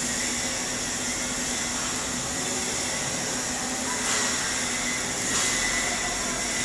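Stick-welding (SMAW) arc burning on an E7018 electrode during a capping pass: a steady crackling hiss, with a faint steady hum underneath.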